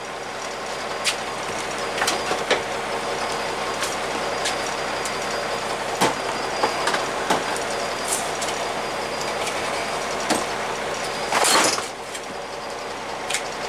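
Bus diesel engine running steadily, with scattered clunks and knocks and a brief louder burst of noise about eleven and a half seconds in.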